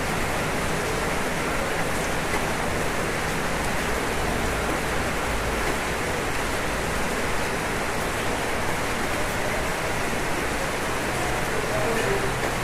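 Steady rain falling on a roof: an even, dense hiss with faint scattered drop ticks.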